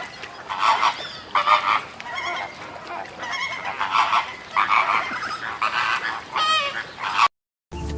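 A flock of flamingos calling, many goose-like honks overlapping one another, cutting off abruptly near the end.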